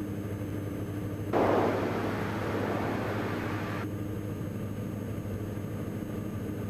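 Steady drone of a Diamond DA42 NG's twin Austro turbodiesel engines in cruise, heard through the cockpit audio feed. About a second in, a stretch of radio or intercom hiss starts suddenly and cuts off sharply a couple of seconds later.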